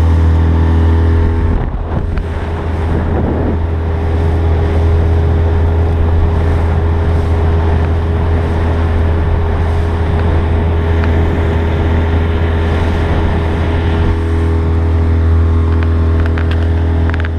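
Small boat outboard motor running steadily at cruising speed, a loud low hum that dips briefly about two seconds in. It is the motor's first run after sitting unused all winter.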